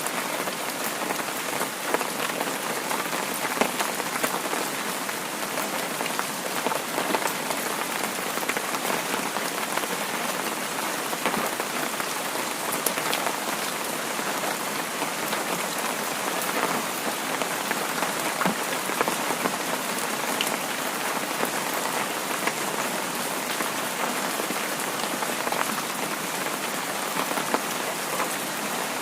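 Heavy rain falling steadily: a dense, even hiss with many scattered sharp drop ticks.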